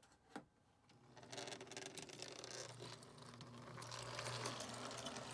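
Lionel 8602 toy locomotive running on O gauge track: after two short clicks, a faint motor hum with a light rattle of the wheels starts about a second in and grows slightly louder.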